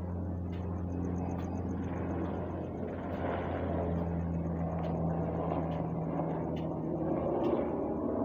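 UH-60M Black Hawk helicopter flying, a steady low rotor and turbine sound that grows gradually louder.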